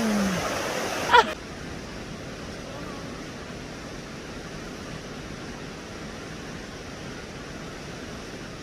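Steady rushing of river water. A short vocal exclamation over louder water about a second in, then an abrupt change to a softer, even rush.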